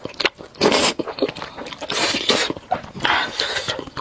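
Close-up eating sounds of spicy noodles: three or four noisy slurps, each about half a second long, with wet chewing and smacking clicks in between.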